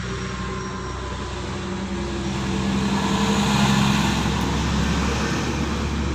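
A road vehicle's engine running as it passes close by, growing louder to a peak a little past halfway, then easing off.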